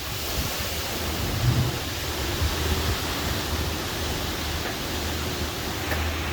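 Strong thunderstorm wind and rain as a steady rushing noise, with gusts buffeting the microphone in low rumbles.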